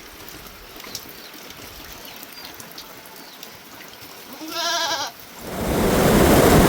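A single wavering bleat from a sheep or goat about four and a half seconds in. About a second later a loud, steady rushing noise comes in and stays.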